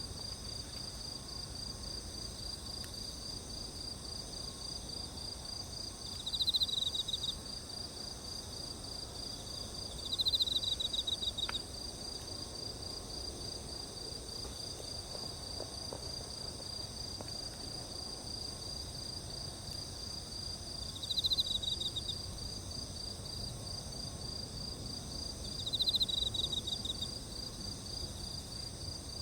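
Insects chirping in a steady, rapid high-pitched chorus. A louder trilling call breaks in four times, each lasting about a second. There is one faint click a little after the second trill.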